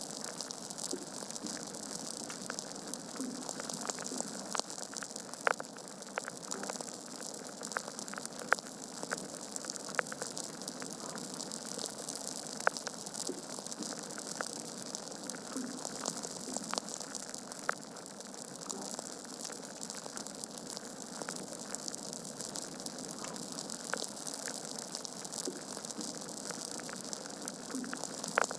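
Wood fire crackling in a fireplace: a steady hiss of burning logs with frequent small snaps and a few louder sharp pops scattered through.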